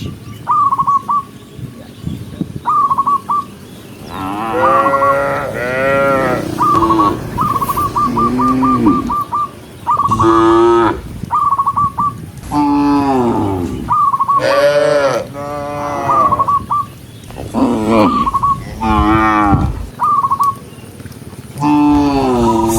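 Several cows mooing again and again, long calls that rise and fall, often overlapping one another. A short high chirping call comes back many times between the moos, once as a quick run of a dozen or so.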